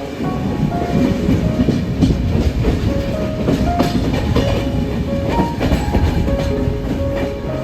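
Passenger train running at speed: a steady low rumble with wheels clicking over the rail joints.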